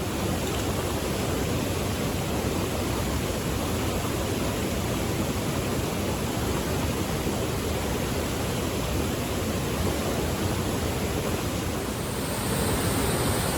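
Waterfall rushing: a steady, even noise of falling water, getting a little louder near the end.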